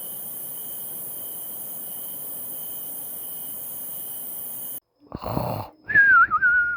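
A steady hiss with a faint high tone, which cuts off abruptly. Then a cartoon-style snoring sound effect: a rasping snore followed by a wavering whistle that falls slightly in pitch.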